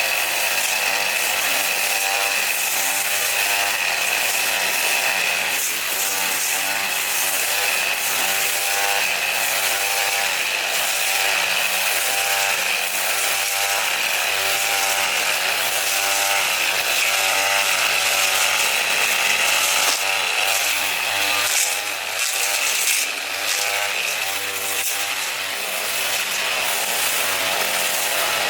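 A power tool cutting without a break, with a steady high whine and a grinding noise that swells and fades about once a second.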